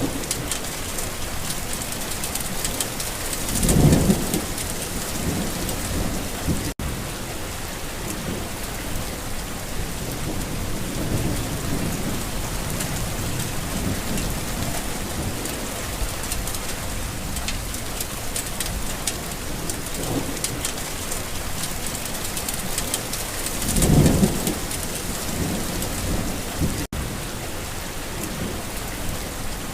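Steady rain falling, with two low rumbles of thunder: one swells about four seconds in and the other about twenty seconds later.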